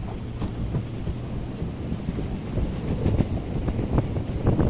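Train running on the rails, heard from on board as it pulls out and gathers speed: a low rumble with scattered clicks of the wheels on the track, growing louder and busier.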